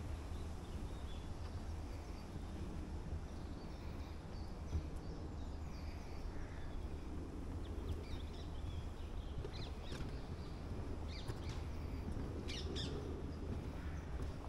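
Small birds chirping and calling in woodland: short high chirps scattered through, coming more often in the second half, over a low steady rumble.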